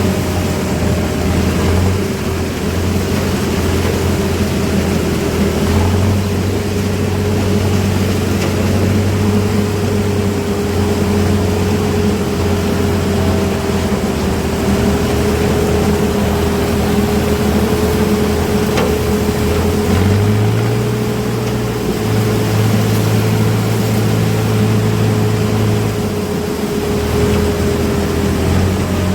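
Diesel engines of a sugarcane harvester and tractor running steadily under load, a constant whine over a low engine drone that shifts in pitch a few times.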